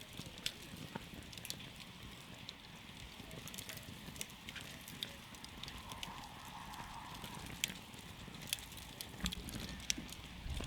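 Wood campfire crackling: a steady low rush of burning with irregular sharp pops and snaps throughout, a few of them standing out loudly.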